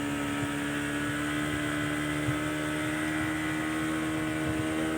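Speedboat engine running at a steady cruising speed: an even, pitched drone that holds steady throughout.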